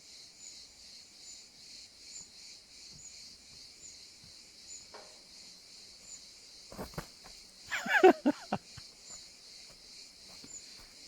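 Steady high-pitched chorus of crickets, with soft chirps repeating about every two-thirds of a second. About eight seconds in, a short loud pitched call cuts across it, with a few clicks just before.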